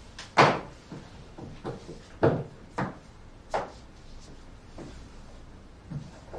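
Several sharp household knocks and clunks at uneven intervals, the loudest about half a second in.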